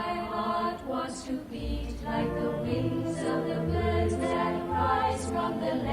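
A choir singing a slow melody, with low sustained bass notes joining about two seconds in.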